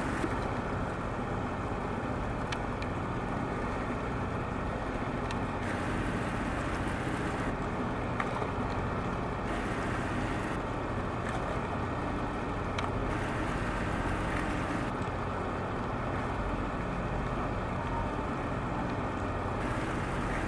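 Ferry's engines running, a steady low rumble with faint steady tones and a few light clicks.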